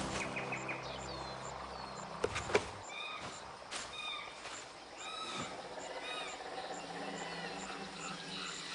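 Garden ambience: short bird chirps and calls repeating over a faint, even insect chirring, with two sharp clicks a little after two seconds in. The tail of the opening music fades out in the first few seconds.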